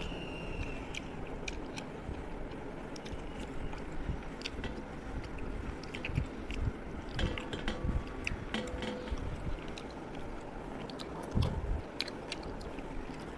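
A person eating fish curry by hand: chewing and mouth noises, with short wet clicks and squishes as fingers work the fish and gravy on a steel plate.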